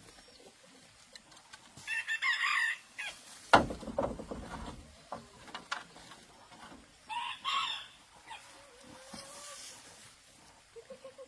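Chickens calling twice, short loud calls about two seconds in and again about seven seconds in, with a single sharp knock in between.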